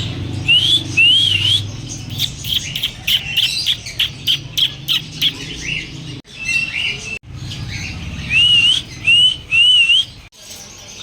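Birds calling: a short call that rises and then dips, repeated in quick runs of two or three, with a busy stretch of sharp rapid chirps in the middle.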